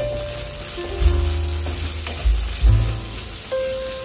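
Greens, potato and fried lentil dumplings sizzling in a metal kadai while a wooden spatula stirs them, with light scraping clicks. Background music with deep bass notes plays over it.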